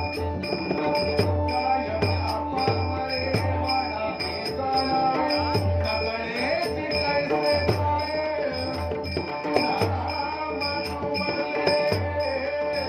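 Marathi bhajan accompaniment: held harmonium tones over a steady beat of drum strokes and jingling small hand cymbals.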